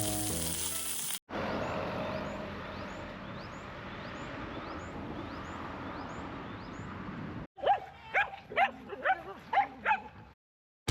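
A steady hiss, then a dog barking about eight times in quick succession near the end.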